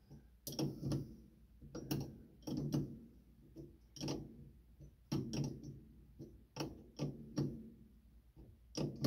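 Irregular clicks and knocks, one or two a second, of hands handling metal tools and parts. No engine cranking or running.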